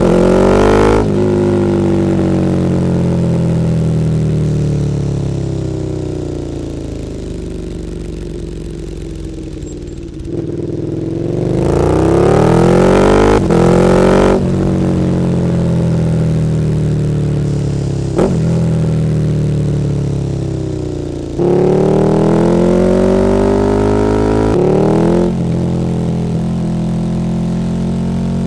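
KTM 1290 Super Duke R V-twin running through an Akrapovič Evolution Line exhaust. It accelerates hard through the gears, rising in pitch with short breaks at each upshift, then winds down slowly off the throttle between pulls.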